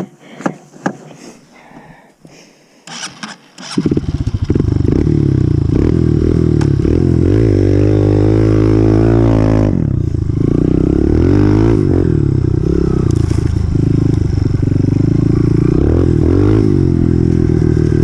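Honda CRF125F single-cylinder four-stroke dirt bike engine starting up after a few clicks and clatters of handling, then running. It revs up a few seconds after starting, drops back near the middle, and settles into a steady run with one small blip near the end.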